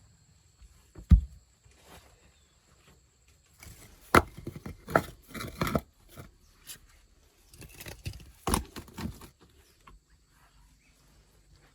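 Scattered knocks and thuds, as of objects being handled and set down: a heavy thud about a second in, a cluster of sharper knocks around four to six seconds, and another burst of knocks around eight and a half seconds.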